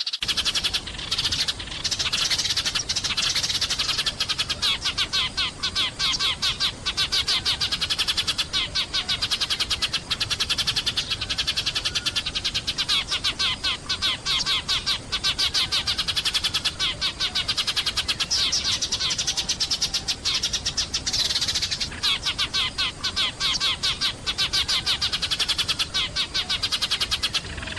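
Sparrows chirping and chattering: a fast, unbroken stream of short, high chirps, many a second.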